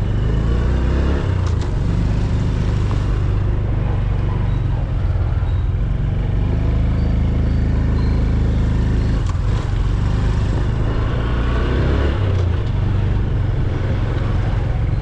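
Motor vehicle engine running steadily, a loud low drone whose pitch shifts slightly a few times.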